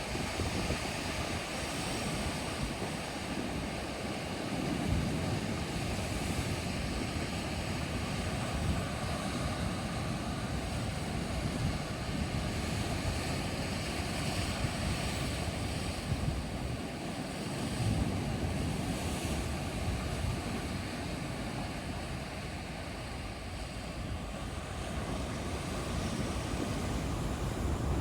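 Steady rush of moving water with wind, swelling and easing slowly a few times.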